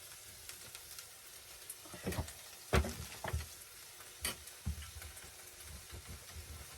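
Chopped vegetables sautéing in a thin frying pan: a steady soft sizzle, with several short knocks and clatters in the middle of the stretch.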